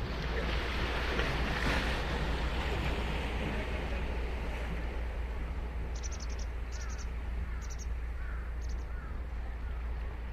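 Ocean waves breaking and washing up on a sandy beach, a wave swelling about a second in and slowly subsiding, over a steady low rumble of surf and wind.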